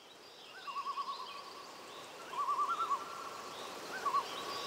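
Birdsong fading in over a soft hiss of outdoor ambience: a warbling whistled trill heard three times, with fainter high chirps above it.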